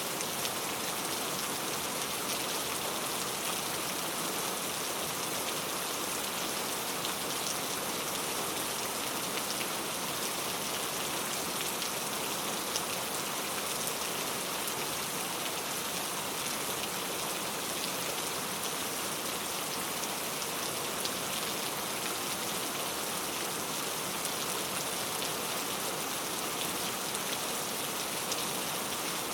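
Steady rain falling, an even hiss of many fine drops with faint patters, unchanging throughout.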